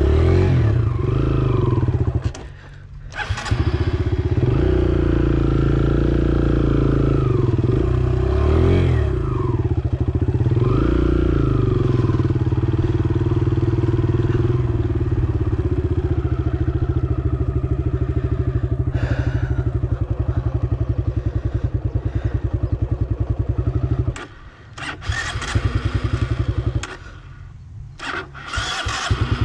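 Dirt bike engine running hard on a motocross track, its pitch rising and falling as it revs through the turns and gears. The sound briefly drops away about three seconds in and twice near the end.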